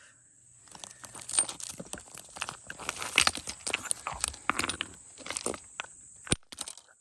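Creek gravel and chert rocks crunching and clacking, dense irregular crunches for several seconds, then two sharp clicks of stone near the end.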